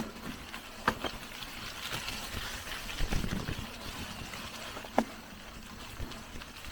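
Mountain bike moving along a rough jungle trail: a steady rustling, rolling noise with a few sharp clicks and knocks, the loudest about a second in and about five seconds in.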